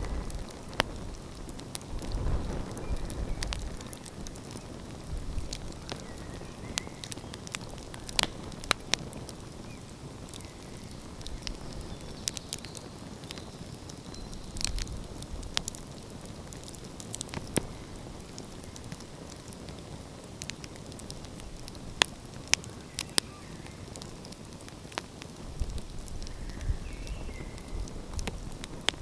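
Wood fire burning and crackling, with scattered sharp pops of varying loudness over a steady hiss. A low rumble swells in the background near the start and again near the end.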